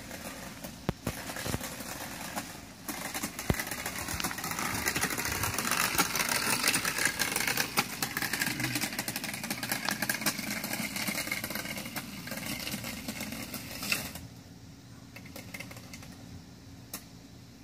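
Modded Razor electric kids' dirt bike riding past: a busy mechanical running noise full of fine rattling clicks from the drive. It drops away abruptly about fourteen seconds in, leaving a fainter hum.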